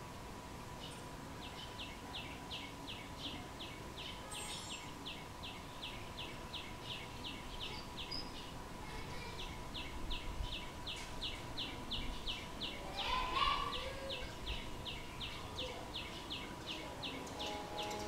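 A bird calling a long, even run of short high chips, three to four a second, in two runs with a brief pause between them. About two-thirds of the way through there is a short rising call, over a faint steady tone.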